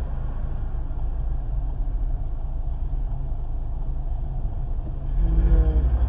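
Car engine and road rumble, steady, then louder as the engine revs up about five seconds in, as when the car pulls away.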